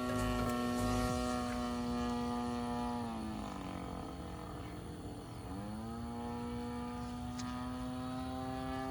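The 20cc gas engine of an RC aerobatic plane running steadily with its propeller, throttled back about three seconds in and opened up again around five and a half seconds.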